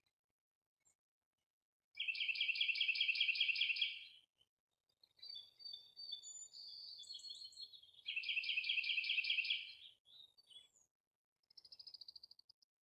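Songbirds singing: a loud rapid trill of about two seconds, plain chirps and a thin whistled note, a second two-second trill, then a short, fainter trill near the end.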